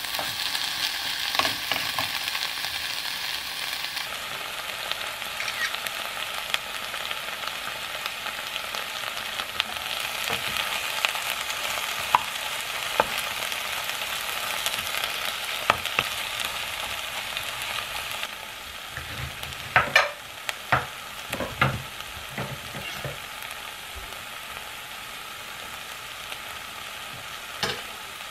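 Chicken breast, red bell pepper and onion sizzling in a frying pan as they are stir-fried, with a wooden spatula scraping and clicking against the pan. The sizzle quietens about two-thirds of the way in, followed by a cluster of sharper spatula knocks and one more near the end.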